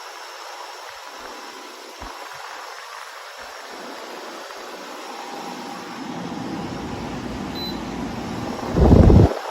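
Joy Pebble portable spot air conditioner running with a steady rush of fan and airflow noise. A low rumble builds in the second half, ending in a brief loud low burst about a second before the end.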